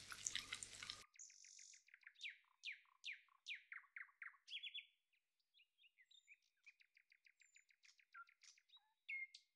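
Faint songbird song: runs of quick downward-sweeping chirps, then rapid trills and a few clear whistled notes near the end.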